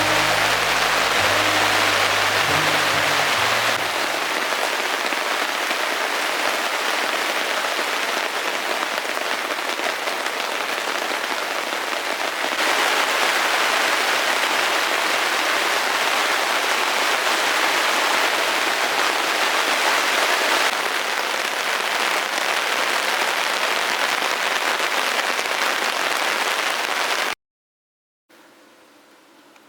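Heavy rain falling steadily, a dense even hiss of drops, with the tail of background music fading out in the first few seconds. Near the end it cuts off abruptly to a moment of silence, then a faint quiet outdoor ambience.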